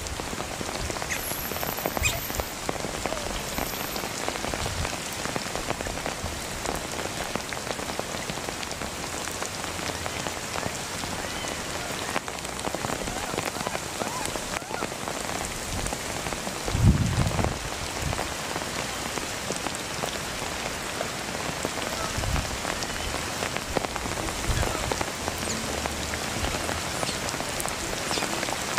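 Steady rain falling, an even hiss of drops, with one brief low thump about two-thirds of the way through.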